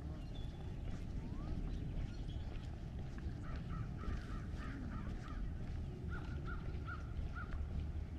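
A bird calling in a run of short, evenly repeated notes, starting about three and a half seconds in and going on for several seconds, over a steady low outdoor rumble.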